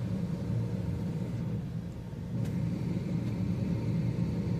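Steady low rumble of a car running, with no sharp events.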